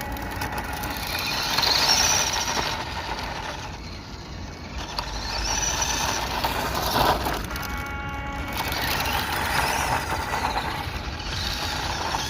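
WPL D12 1:10 RC drift truck's electric motor whining up and down in pitch about four times as it is throttled on and off, over a steady rushing noise.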